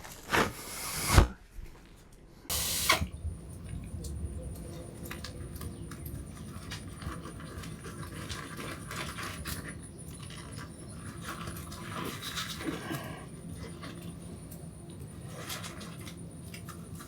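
Handling knocks and clatter, with three sharp knocks in the first three seconds, then a run of small scattered clicks and rustles over a steady low background.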